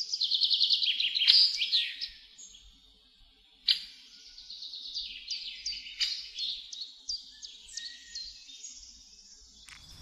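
Songbirds singing: a fast run of high, falling chirps in the first two seconds, then, after a short lull, a string of separate sharp chirps. A single sharp click sounds a little under four seconds in.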